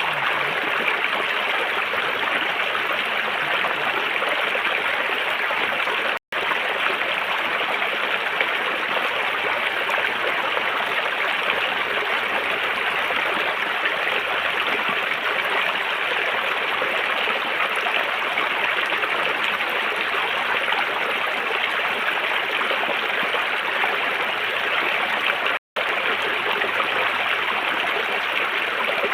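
River water flowing over rocks, a steady rushing babble. It cuts out to silence for an instant twice, about six seconds in and again near the end.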